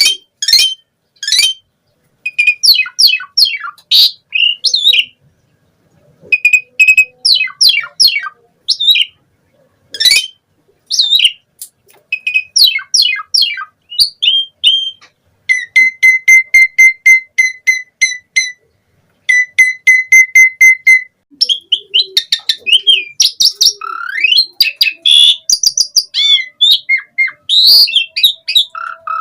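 Asian pied starling (jalak suren) in full song: phrases of chattering notes and rising and falling whistles, and in the middle runs of rapid repeated notes, about six a second, with short pauses between phrases.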